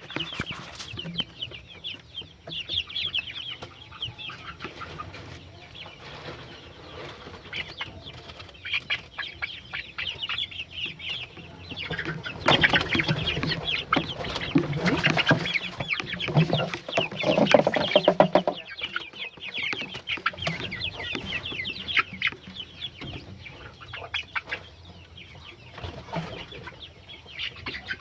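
A flock of chickens clucking and calling over feed, with many short high calls throughout. The calling grows louder and busier in the middle, with quick clicky sounds mixed in.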